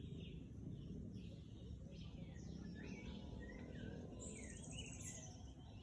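Several birds chirping and calling, in short rising and falling notes, over a low steady background of outdoor noise, with a buzzy high trill about four seconds in.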